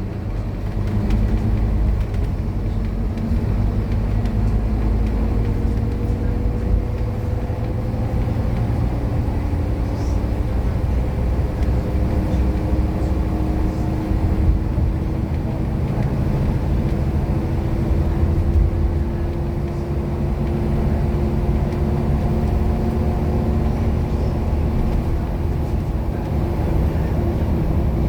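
Scania K230UB bus's five-cylinder diesel engine running under load, a deep steady rumble with an engine note that rises slowly in pitch as the bus gathers speed.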